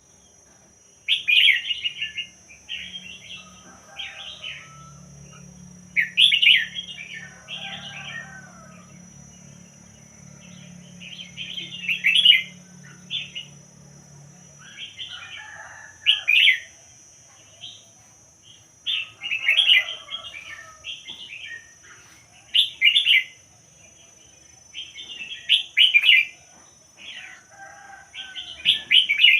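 Red-whiskered bulbul singing: short, bright whistled phrases repeated every few seconds, with brief pauses between them.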